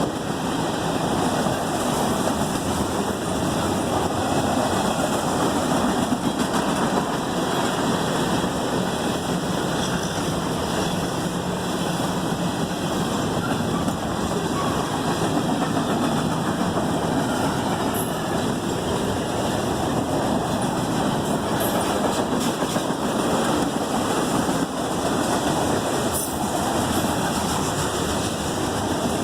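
CSX freight train rolling past at track speed: a steady rumble of wheels on the rails and cars going by.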